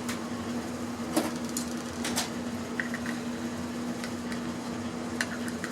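Scattered sharp clicks and light taps of hand tools on small bolts and metal parts as an electronic device is taken apart for scrap, with a brief squeak near the middle, over a steady background hum.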